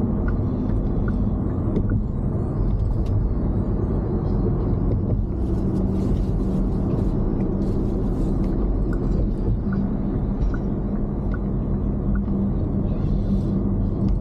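Steady road and engine rumble of a car cruising on a highway, heard from inside the cabin, with a couple of brief hissy swells about midway.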